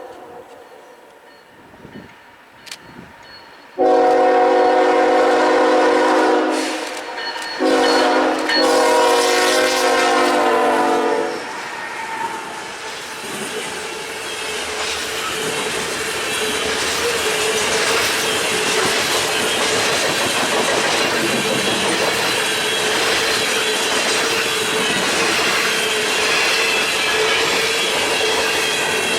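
Diesel freight locomotive horn sounding loud multi-note blasts from about four to eleven seconds in: one long blast, then a shorter one run into a long one. After that the train rolls past with steady wheel-and-rail noise and a held high squeal from the wheels.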